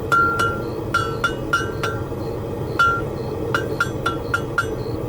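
Hammer striking hot steel chain links on an anvil, about a dozen ringing blows in irregular groups, bending the link ends in to close them. A steady hum runs underneath.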